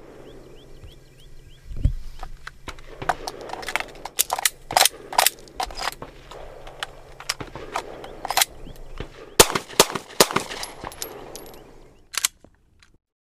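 Handgun shots fired in irregular strings for about ten seconds, some sharp and loud, others fainter, over a steady low hum.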